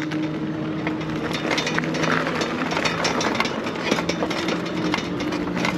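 Steady low engine hum, idling, with scattered clicks and rattles over it.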